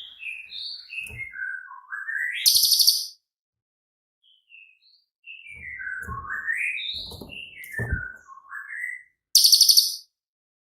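Cililin songbird singing two phrases. Each is a quick run of clear whistled notes stepping down in pitch and then gliding back up, and each ends in a loud, harsh, high buzzing burst, the first about two and a half seconds in and the second near the end.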